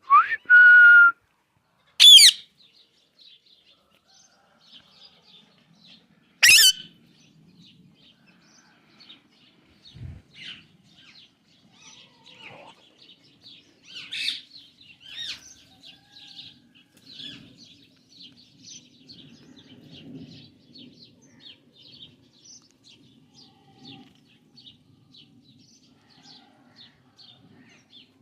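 Alexandrine parrots calling: three loud, harsh screeches in the first seven seconds, the first rising then held, followed by steady soft chattering chirps. A faint low hum runs underneath in the second half.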